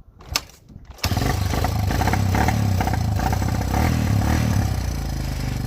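Freshly rebuilt Honda XR dirt bike engine, new piston rings fitted, kick-started: a sharp click, then the engine catches about a second in and runs steadily.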